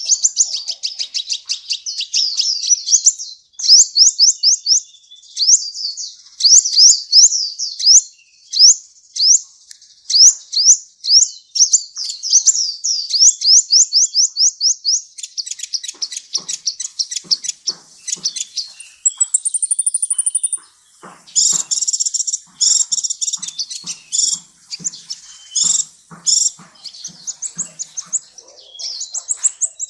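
Sunbird singing a fast, high chattering song of rapid sharp sweeping notes, with a short high buzzing trill about two-thirds of the way through.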